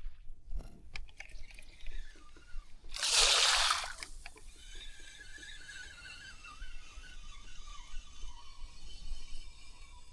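Water splashing: one loud splash about three seconds in, with faint sloshing and dripping around it.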